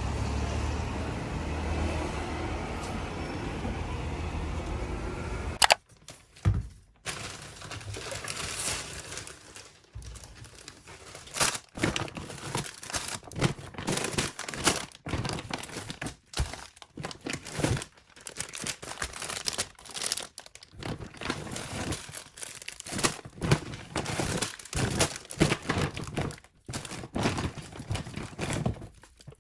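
Low, steady street-traffic rumble that cuts off suddenly about six seconds in. Then plastic bags and food packaging crinkle and tear in irregular bursts as groceries are unpacked.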